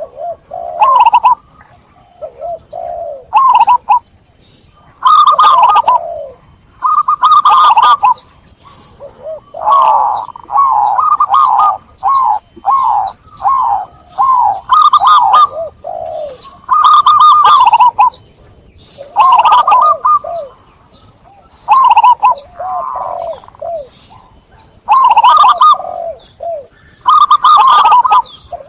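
Zebra dove (perkutut) cooing: loud phrase after phrase of quick staccato coo notes, each phrase a second or two long with short pauses between.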